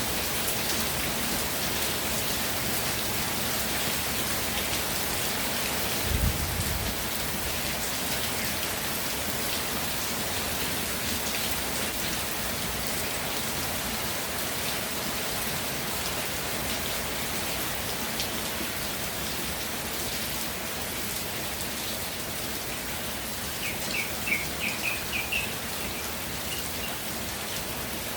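Steady rain falling and pattering on surfaces. A brief low thud sounds about six seconds in, and near the end a quick run of about eight high chirps.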